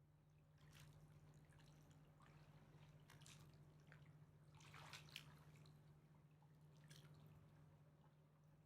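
Faint river water lapping in soft, irregular splashes and drips, the largest cluster about five seconds in, over a steady low hum.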